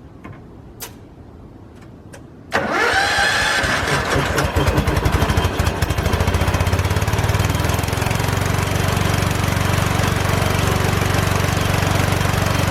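Piston air compressor starting suddenly about two and a half seconds in and then running steadily with a fast, even pulsing, building air pressure for an impact wrench.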